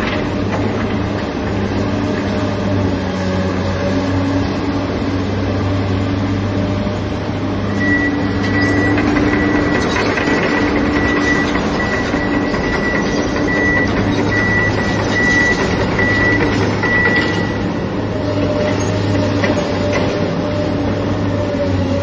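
Excavator's diesel engine running steadily under load, with a deep hum and engine tones that rise and fall. About a third of the way in, a run of high beeps starts and lasts roughly ten seconds, with a few knocks scattered through.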